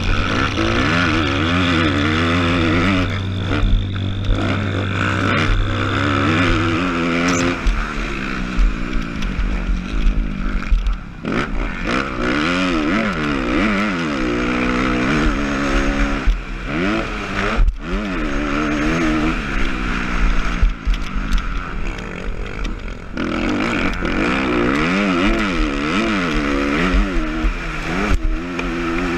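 Motocross bike engine revving up and down over and over as the throttle is opened and shut through the race. A steady low hum sits under it for the first several seconds.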